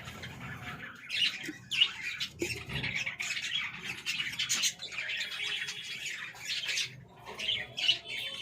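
Budgerigars chattering and squawking, many calls overlapping with no break.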